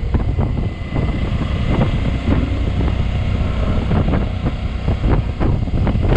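Motorcycle riding at speed: wind buffeting the microphone in uneven gusts over the bike's engine and road noise.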